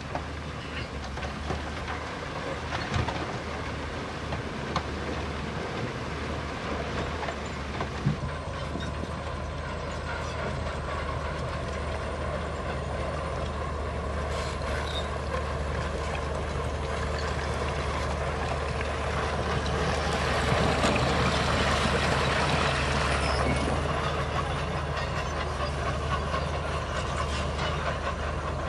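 Bulldozer at work: its diesel engine runs steadily under metallic clanking and squeaking from its crawler tracks, with a few sharp knocks in the first eight seconds. The engine gets louder about twenty seconds in.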